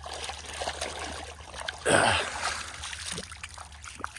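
Muddy Crocs clogs being swished and rinsed in shallow lake water: splashing and dribbling, with one louder splash about two seconds in.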